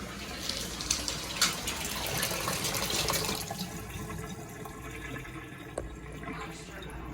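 Water running, loudest for about the first three seconds, then quieter.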